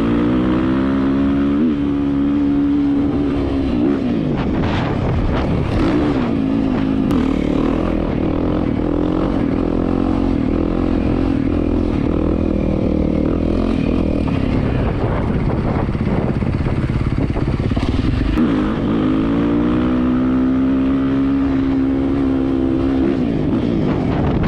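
Dirt bike engines running and revving while ridden, the pitch rising and falling as the bikes speed up and slow down. A steady engine note holds near the start and again near the end, with a rougher, noisier stretch between.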